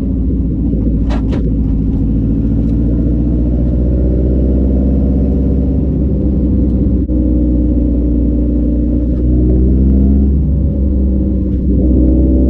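Nissan S14's engine running while the car is driven, heard from inside the cabin as a steady low drone. Two short clicks come about a second in, and the engine note rises a little about ten seconds in.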